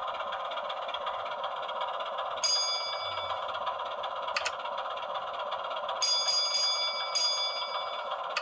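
00 gauge model train running on the layout track, a steady hum of motor and wheels on rail. Over it come bell-like metallic rings: one about two and a half seconds in, then several short strikes a little past the middle. There is a single sharp click in between.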